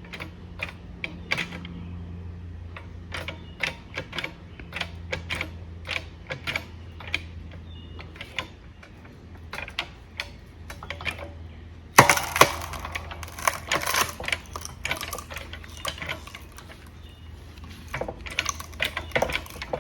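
Harbor Freight 10-ton manual hydraulic log splitter being pumped by hand, its pump handles and mechanism clicking and clacking irregularly. About two-thirds of the way through there is a loud sharp crack followed by a couple of seconds of dense crackling as the wood splits under the ram.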